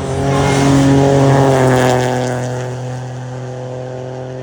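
Turbocharged four-cylinder engine of a WRC Rally1 car held at high revs as the car passes, loudest about a second in and then fading as it goes away.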